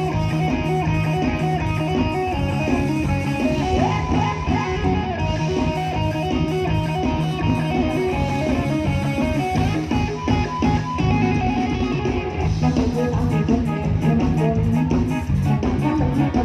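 Live band playing an instrumental passage: guitar lines over a drum kit with a steady beat.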